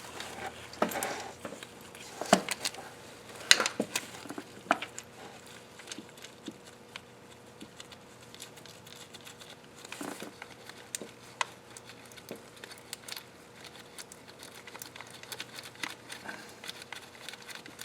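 Scattered light clicks, clinks and knocks of a timing chain and metal engine parts being handled and fitted, with a few louder knocks in the first few seconds and another about ten seconds in.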